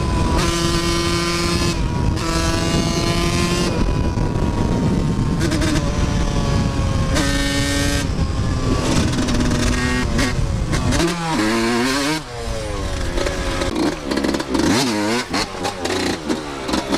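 Dirt bike engine running under throttle, holding a steady pitch for a few seconds at a time, then revving rapidly up and down in the second half.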